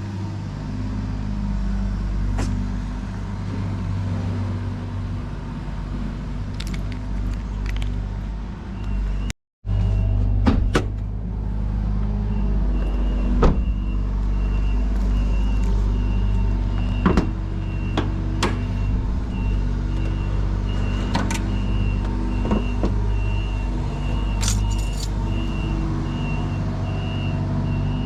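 Car engine running with a steady low hum, with scattered clicks and knocks. A high, rapidly pulsing beep starts about twelve seconds in and keeps going.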